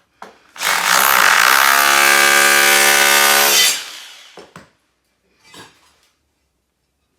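Electric breaker (demolition hammer) running in one burst of about three seconds, picking up speed at the start and then stopping.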